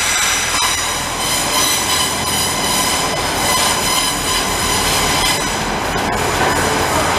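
Train moving at close range: steady loud rolling noise with a high-pitched ringing squeal held over it.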